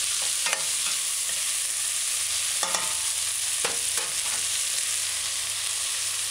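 Bone-in chicken pieces and onions frying in oil in a stainless steel pot, a steady sizzle, with a cooking spoon stirring and knocking lightly against the pot a few times in the first few seconds.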